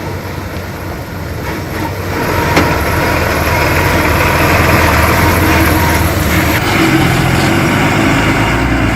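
Heavy earthmoving machine's diesel engine running, growing louder about two seconds in as it works harder, with one sharp knock soon after.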